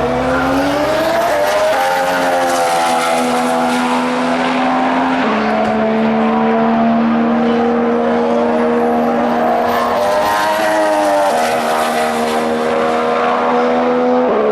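A 2014 Formula One car's 1.6-litre turbocharged V6 engine running at high revs. Its pitch climbs over the first second and a half, then holds steady, stepping down suddenly a few times along the way.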